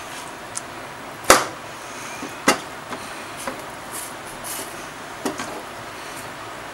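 Raw pork pieces being shifted by hand inside a stainless steel pot, knocking against the pot's metal sides: a sharp knock about a second in, the loudest, another a second later, then several lighter knocks, over a steady background hiss.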